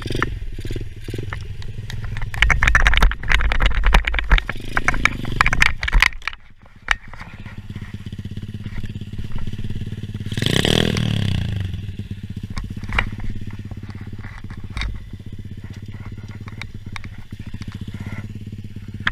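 Chinese pit bike engine running, with loud clattering and buffeting for the first six seconds. It then settles to a steady idle, revved once about ten seconds in, the pitch rising and falling back.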